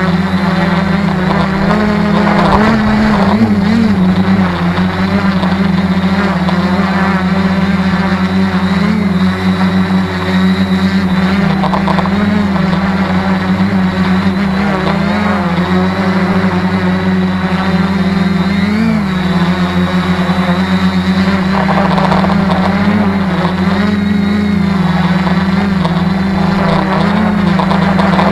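Tarot 650 multicopter's electric motors and propellers humming steadily, the pitch wavering up and down as the APM 2.6 flight controller changes motor speeds to hold the craft steady in strong, gusty wind.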